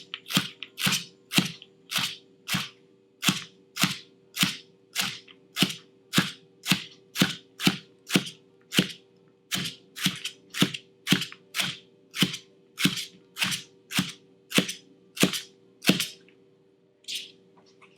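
Kitchen knife slicing celery stalks on a cutting board in an even rhythm of about two chops a second, stopping about two seconds before the end. A faint steady hum lies underneath.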